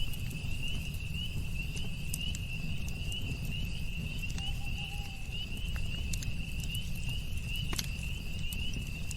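Campfire burning: scattered crackles and pops over a low steady rumble, with one sharper pop near the end. A steady high-pitched pulsing trill runs throughout, and a brief mid-pitched tone sounds about halfway through.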